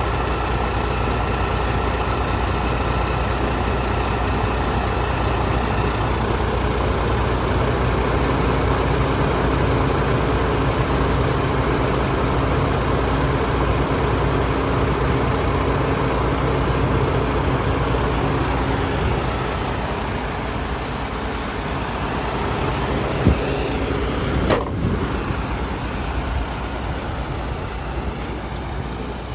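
Diesel engine of a MAN TGS 33.400 truck running steadily, with two short clicks near the end.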